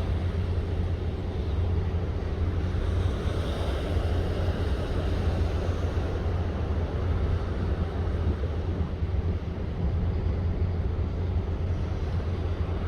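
Steady low rumble under a constant rushing wind noise, heard aboard a cruise ship at sea.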